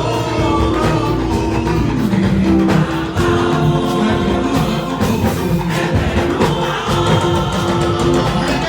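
A church choir singing an anthem with instrumental accompaniment, holding sustained notes over a steady backing.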